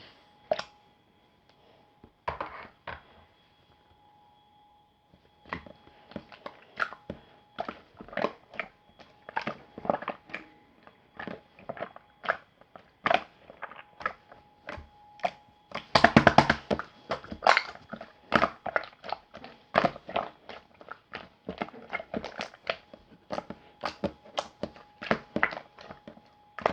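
Close-miked eating: repeated bites and chewing with sharp, crisp clicks and crunches several times a second, growing denser and louder a little past halfway.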